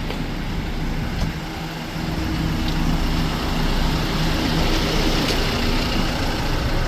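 Bus engine idling steadily, a low hum that grows a little louder about two seconds in.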